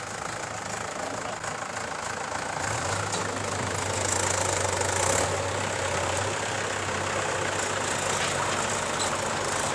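Diesel engine of heavy digging machinery running steadily. A deeper hum comes in about three seconds in, and the engine is louder for a few seconds in the middle before settling again.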